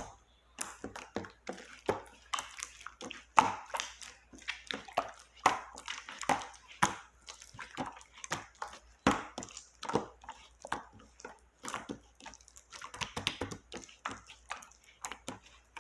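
Clear slime being squished and pressed by hand, with irregular sticky pops and clicks several times a second.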